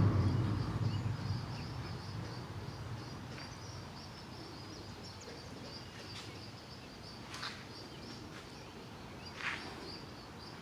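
Faint outdoor ambience: a steady high chirping of insects, with two short sharp chirps late on. A low rumble, likely nearby traffic, fades out over the first two seconds.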